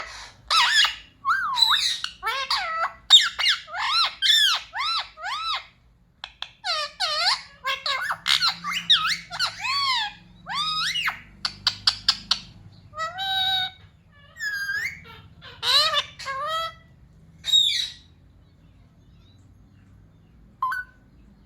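Pet Indian ringneck parrot chattering and squawking in fast runs of short calls that swoop up and down in pitch. It falls quiet for the last few seconds apart from one short call.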